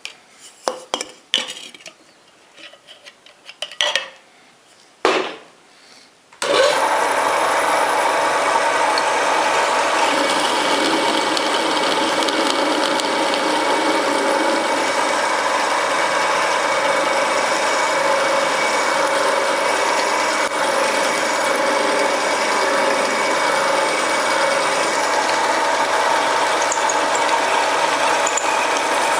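A few short clicks and knocks of metal parts being handled, then about six seconds in the mini lathe's 750 W single-phase motor starts abruptly. It runs steadily with the spinning chuck, giving a constant mechanical hum with several steady tones over a dense whirr.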